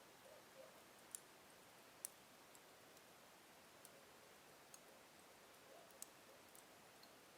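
Slow-burning wood fire in a fireplace crackling faintly: scattered sharp pops, the strongest about one, two and six seconds in, over a soft steady hiss of the flames.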